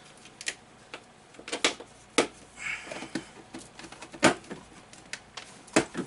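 Irregular plastic clicks and knocks from cable trunking and cables being handled and fitted, the loudest a sharp knock about four seconds in.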